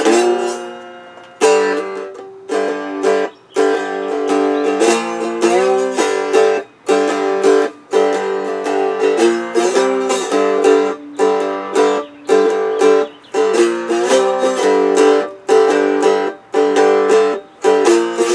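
Homemade cigar box guitar played with a slide: a blues lick of struck strings ringing, with short pitch glides from the slide. The first note dies away for about a second and a half before the strokes start again.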